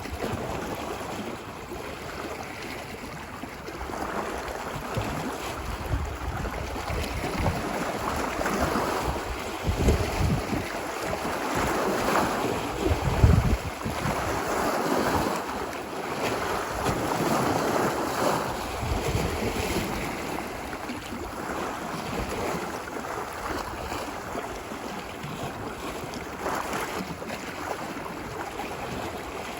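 Ocean surf washing ashore on a beach: a continuous rush of breaking waves that surges and eases every few seconds, loudest near the middle with a low rumble.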